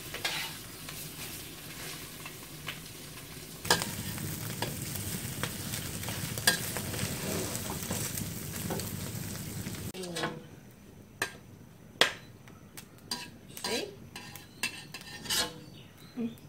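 Thai minced-pork omelette frying in hot oil in a wok, sizzling steadily while a metal spatula scrapes and turns it. About ten seconds in the sizzling stops, and scattered sharp clinks and scrapes of metal on the wok and dishes follow.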